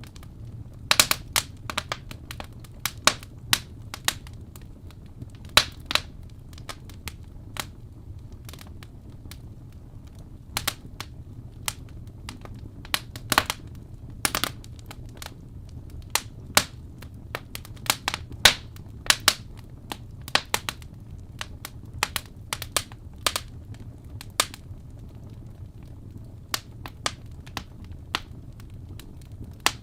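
Wood fire crackling, with irregular sharp pops and snaps, some in quick clusters, over a steady low rumble.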